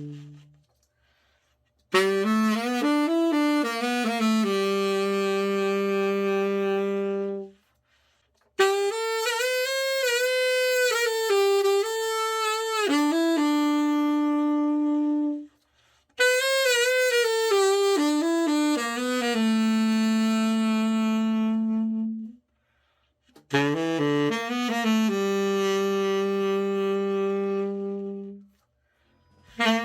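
A freshly overhauled Selmer Super Action 80 Series I tenor saxophone being played in four short phrases. Each phrase is a few quick notes settling onto a long held note, with brief silences between phrases.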